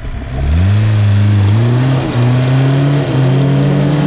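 Off-road vehicle's engine revving hard under load as the stuck vehicle tries to drive forward. The revs climb quickly about half a second in, hold high with a few small dips, and start to fall near the end.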